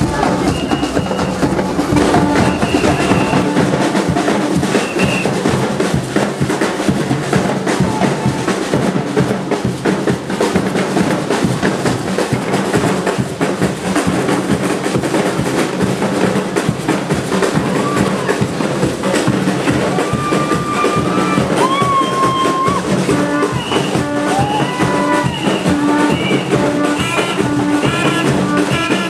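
Loud carnival band music: drums and percussion keep up a dense, driving beat, and a melody of short repeated notes comes forward in the second half.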